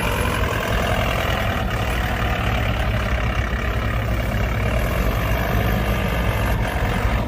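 Doosan forklift's engine running steadily as the forklift drives and turns.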